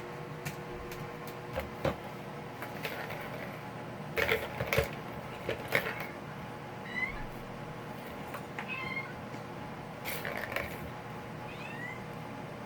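Kittens at play: a few short, high, rising mews, mixed with scattered knocks and rattles as they bat about and carry toys.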